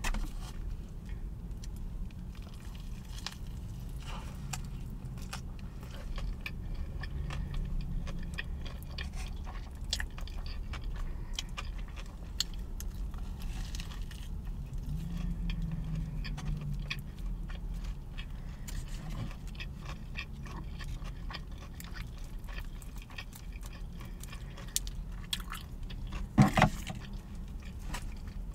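Close-miked biting and chewing of a spicy fried-chicken sandwich: many small wet crunches and mouth clicks over a steady low rumble. A short, louder sound comes near the end.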